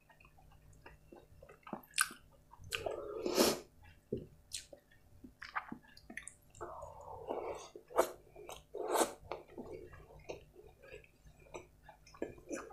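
Close-miked chewing of a mouthful of jeera rice and butter chicken, with irregular wet smacks and clicks of the lips and mouth.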